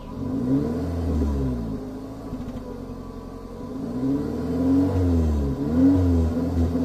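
Suzuki Ignis 1.3 L M13A four-cylinder petrol engine revving up and falling back three times. The pitch peaks about a second in, then twice close together near the end.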